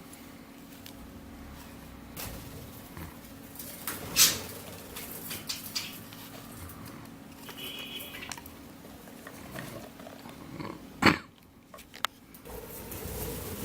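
One-month-old budgerigar chicks moving about, with scattered scratches and taps and one short chirp about eight seconds in. Two louder knocks come about four and eleven seconds in.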